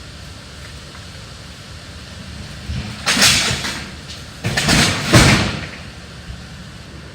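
Scrap metal scraping and clattering as it is dragged and thrown, in two loud bursts about three seconds and four and a half seconds in, over a low steady hum.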